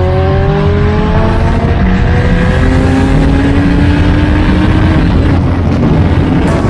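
Motorcycle engine pulling steadily, its pitch rising slowly as it accelerates, under a heavy rumble of wind and road noise.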